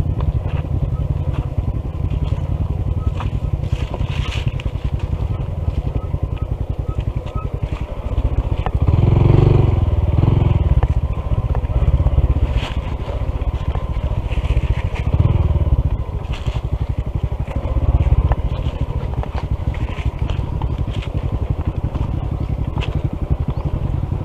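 Honda CT125 motorcycle's small single-cylinder engine running while riding down a steep dirt trail, swelling louder several times, with tyres crunching and scraping over the trail surface.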